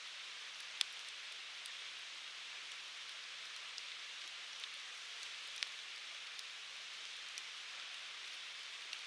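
Firewood burning in a Uniflame Fire Grill fire pit: a steady hiss of flames with scattered sharp crackles, the loudest pop about a second in and another a little past halfway.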